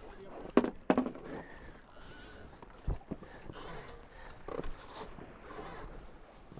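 Knocks and hissing aboard a Tornado racing catamaran as the crew tack: two sharp knocks about half a second apart near the start, a duller thud about three seconds in, and short bursts of hiss between them.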